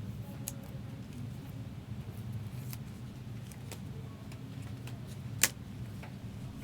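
Trading card packs and cards being handled: scattered soft clicks and rustles with one sharp click about five and a half seconds in, over a steady low hum.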